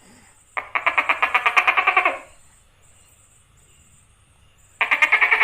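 Tokay gecko calling: two calls made of fast, evenly spaced pulses, about a dozen a second. The first lasts about a second and a half, and the second starts near the end.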